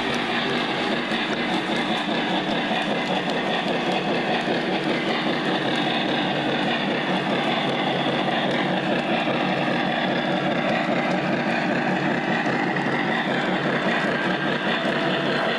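Lionel Legacy O-scale model of a Santa Fe 4-8-4 Northern steam locomotive running around its track, a steady running noise with no breaks.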